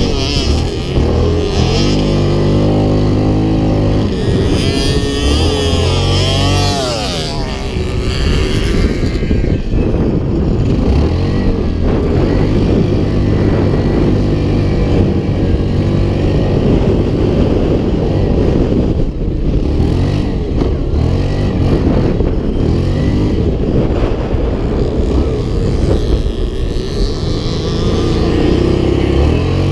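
Off-road motorcycle and quad bike engines running and revving, their pitch rising and falling.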